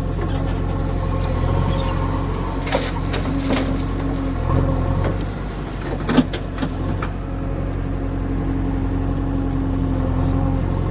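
JCB 3DX backhoe loader's diesel engine running steadily while digging and loading earth, with a higher steady tone that comes and goes and a couple of sharp clanks, about three and six seconds in.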